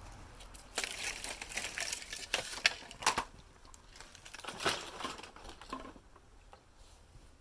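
Crunching and rustling of dry, dead bamboo debris being stepped on or handled, in two spells of a second or two each, with a few sharper cracks.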